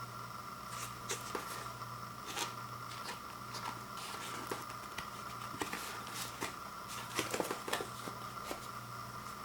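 Scattered light clicks and rustles of handling, busiest a couple of seconds before the end, over a steady background hum.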